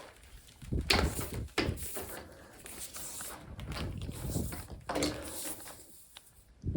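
A few separate knocks and clunks of objects being handled: one about a second in, another shortly after, and a third near five seconds, with quieter shuffling between.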